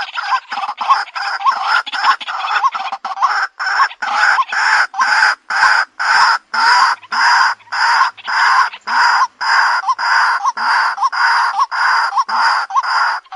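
White-breasted waterhen giving its repetitive harsh call. The notes come quickly for the first few seconds, then settle into an even rhythm of about two and a half notes a second.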